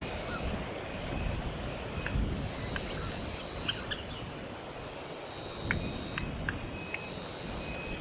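Birds calling: scattered short, sharp chips and thin, high, drawn-out whistled notes, over a low rumble of wind on the microphone.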